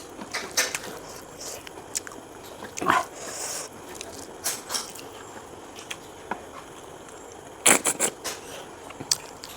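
Close-miked eating sounds: wet mouth clicks, smacking and chewing of snails and pork ribs in curry, with a short vocal sound about three seconds in and a quick run of louder smacks near the end.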